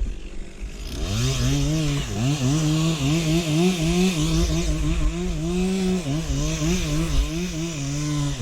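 Two-stroke chainsaw revving up about a second in, then running at high revs with its pitch repeatedly dipping and recovering as it bogs under load in the cut.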